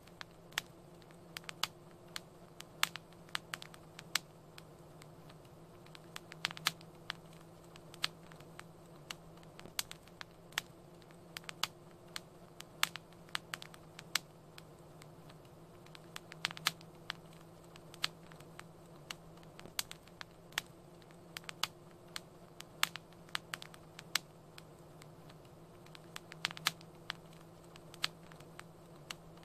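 Fireplace fire crackling, with irregular sharp pops and snaps, sometimes several a second, over a low steady hum.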